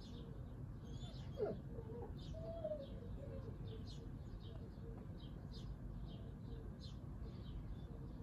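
Small birds chirping repeatedly in short, high notes a fraction of a second apart, over a steady low background rumble, with one brief louder sliding sound about a second and a half in.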